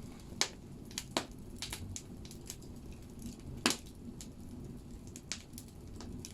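Firewood burning in a wood stove, crackling with irregular sharp pops over a steady low rumble of the fire. The loudest pops come about half a second in and a little before four seconds.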